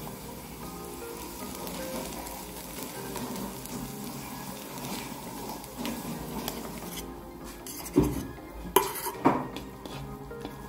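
Minced garlic and red chilli paste frying in hot oil, a steady sizzle. About eight seconds in, a wooden spatula knocks against the pan three times in quick succession as the paste is stirred.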